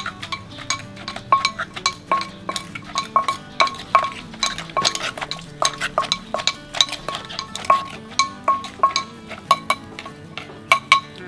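Pestle and spoon knocking and clinking in a mortar, several sharp strikes a second in an uneven rhythm, as green papaya salad is pounded and mixed.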